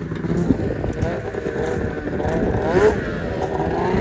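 Engine of a homemade snowmobile built from a 700 sled, revving under way, its pitch rising and falling.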